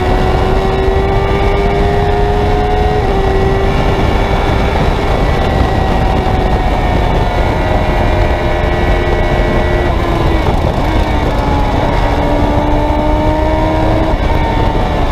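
Engine of a Honda-badged open-cockpit track car running hard at speed, heard onboard over heavy wind rush. The engine note climbs slowly and drops at gear changes about three and ten seconds in.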